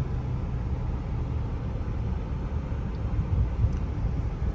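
Steady low rumble of a car on the move, heard from inside: engine and road noise.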